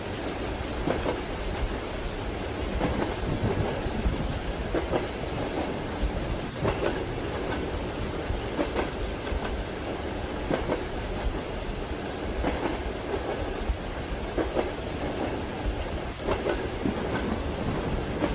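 Steady rain with a deep, continuous low rumble, and train wheels clacking over rail joints in short groups every second or two.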